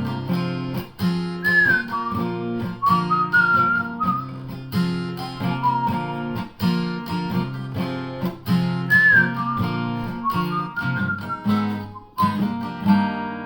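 Whistled melody over steadily strummed acoustic guitar, the instrumental outro of the song; the whistled line glides between notes. Near the end a final chord is struck and left to ring out and fade.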